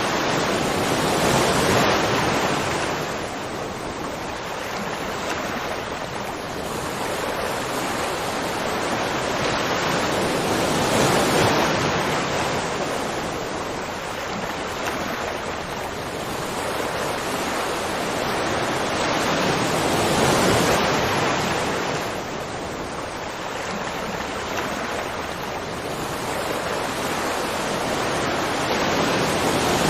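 Rushing water, a steady roar of noise that swells and eases about every nine or ten seconds.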